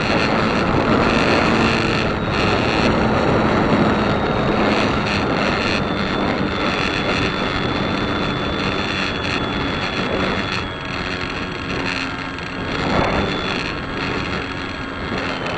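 An engine running steadily under heavy wind buffeting on the microphone.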